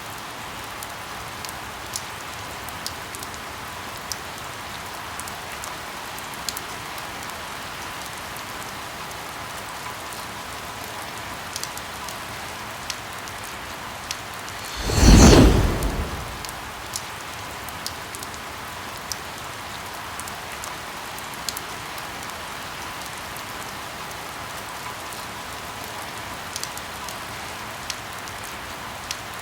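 Steady rain hissing, with scattered close raindrops ticking. About halfway through, a single loud crack of thunder lasts about a second and a half.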